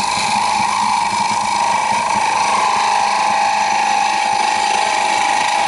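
A turning tool cutting lightly across a small spindle of wood spinning on a lathe, with a steady whirring hiss over the lathe's running. It begins abruptly as the tool meets the wood, taking off fine tool marks.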